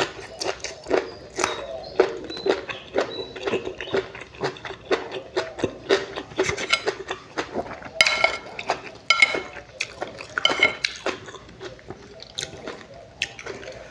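A person eating close to the microphone: steady chewing and mouth noises, with cutlery clinking against a dish a few times, the clearest clinks in the second half.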